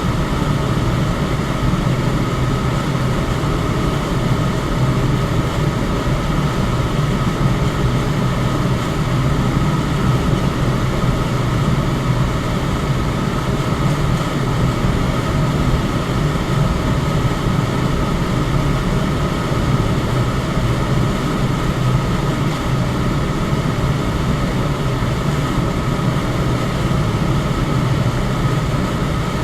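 Electric fan running steadily: an even rush of moving air, heaviest in the low range, with a faint steady whine above it and no change over time.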